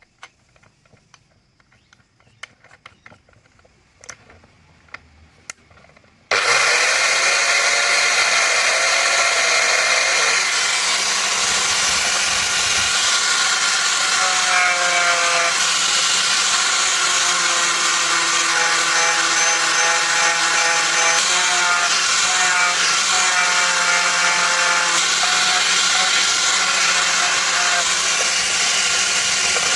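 A few faint clicks and taps, then a power tool is switched on about six seconds in and runs continuously at a loud, steady level.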